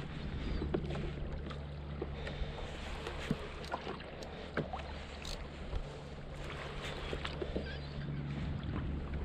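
Ambient sound aboard a fishing kayak at sea: water moving against the hull under a steady low hum, with scattered small clicks and knocks.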